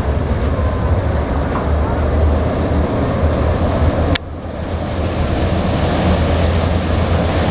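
Wind rumbling on the microphone over splashing lake water. A sharp click comes about four seconds in, and the sound drops briefly before building back.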